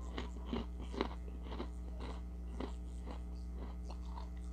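A person chewing crunchy Ritz Toasted Chips close to the microphone: a run of irregular crisp crunches and crackles.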